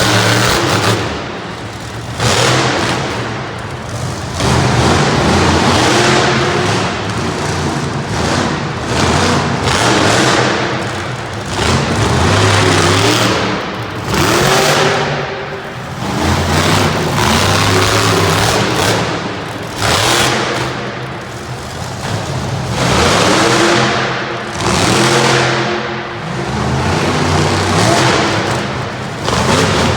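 Demo Derby monster truck's engine revving hard in repeated surges during a freestyle run, its pitch climbing and falling every two seconds or so. Arena music plays underneath.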